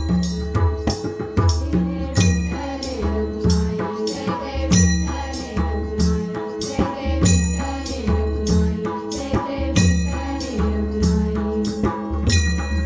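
Bhajan accompaniment: a drum keeps a fast, steady rhythm, with metallic cymbal-like accents about every two and a half seconds and a held melody line over it.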